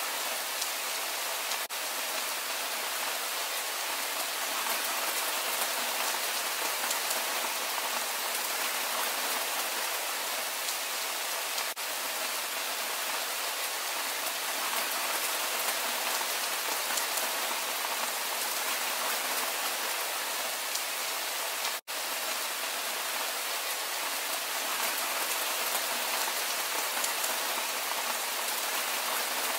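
Steady rain falling, an even hiss with no let-up. It drops out for an instant three times, the deepest gap about three-quarters of the way through.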